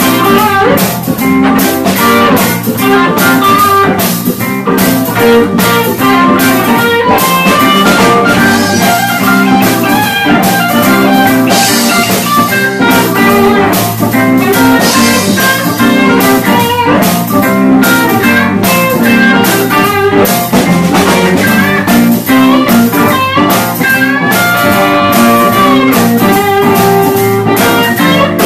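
Live blues-rock band playing an instrumental passage: electric guitar lines over a steady drum-kit beat.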